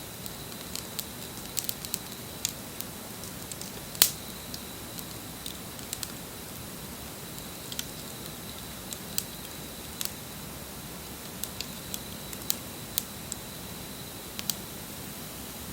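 Wood fire crackling, with irregular sharp pops and one loud pop about four seconds in.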